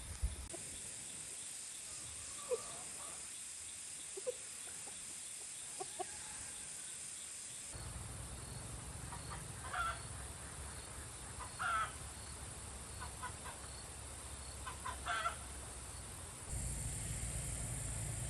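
Chickens clucking: a few soft short clucks, then louder, higher calls every couple of seconds, over a steady high hiss.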